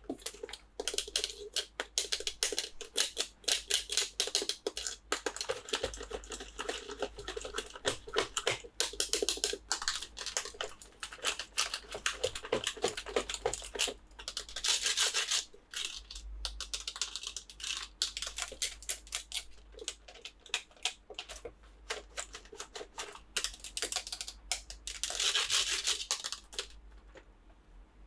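Toy packaging being handled and opened: a dense run of irregular clicks and taps, with a longer crinkling rustle about halfway through and another near the end.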